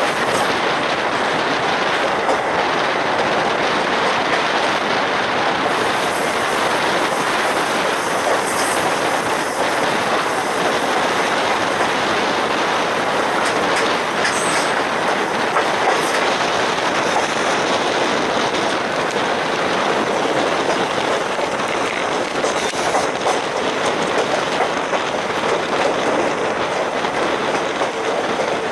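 Passenger train in motion, heard from an open coach doorway: the steady running noise of the coaches' wheels on the rails, with clatter over rail joints.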